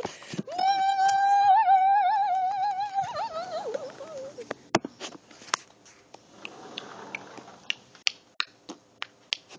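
A child's voice holding one long, high note for about four seconds, wavering and then sliding down, followed by a few light clicks and taps.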